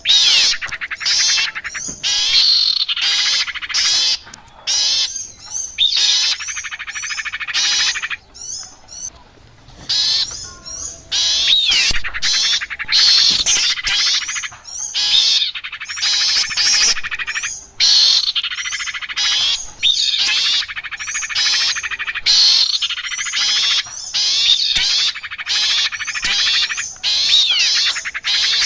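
Bird-lure (pikat) recording of small songbird calls, the birds known as sirpu, sirtu and cipoh (ioras): dense, rapid chattering and squawking calls in repeated bursts with short gaps, and a brief lull about eight seconds in.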